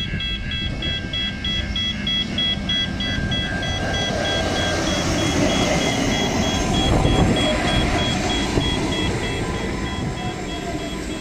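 Level crossing warning bells ringing in quick pulses, about three a second, while a diesel railcar approaches and passes close by. The railcar's engine and wheels rumble loudest about six to eight seconds in.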